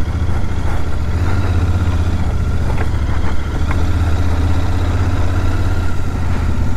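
Royal Enfield Continental GT 650's parallel-twin engine running steadily, with a low, even rumble.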